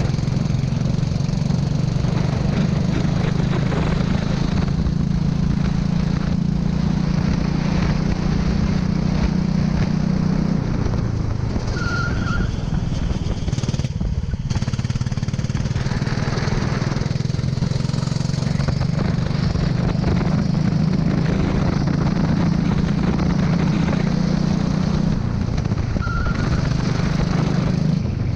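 Go-kart engine running at high, steady revs, with the pitch dropping around ten seconds in and again near the end as the revs fall, then climbing back.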